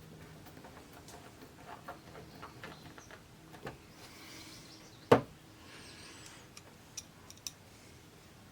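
Small clicks and taps of parts being handled and fitted while reassembling an LCD TV, with one sharp knock about five seconds in.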